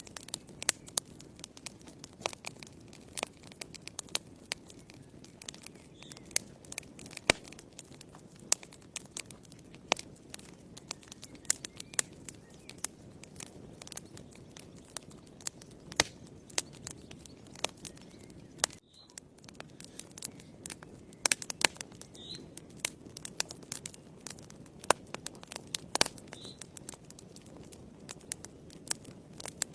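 Wood fire burning in a fireplace, crackling: frequent sharp pops and snaps over a low, steady rustle of the flames.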